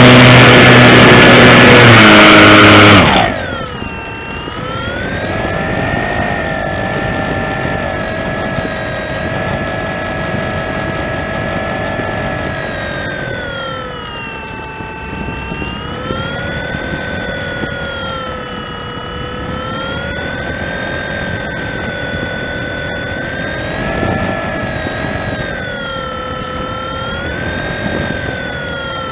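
Motor and propeller whine of a foam radio-control airplane, heard through a camera mounted on the wing, its pitch rising and falling slowly with the throttle. It opens with about three seconds of a very loud, harsh sound with stepped tones that cuts off suddenly.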